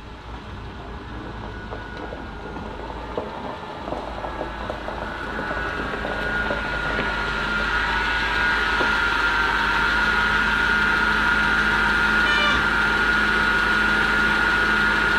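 Audi sedan's engine running as the car creeps slowly in, growing steadily louder as it approaches, with a steady high whine that strengthens as it nears. A few faint crackles come in the first few seconds.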